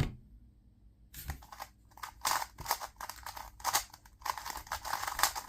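A 2x2 speed cube being turned fast during a timed solve: rapid plastic clicking and rattling of its layers, in dense bursts from about a second in.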